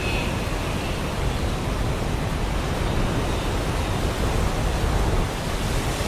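Heavy rain falling in a steady, even hiss between thunderclaps.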